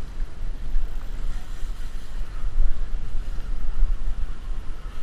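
Wind buffeting the microphone: a loud, gusting low rumble with a steady hiss over it.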